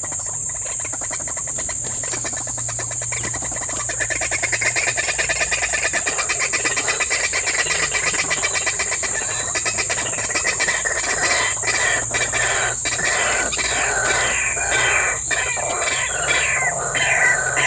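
White-breasted waterhen calling: a rapid run of repeated notes that builds about two seconds in and turns to quick falling strokes in the second half. A steady high insect drone runs underneath.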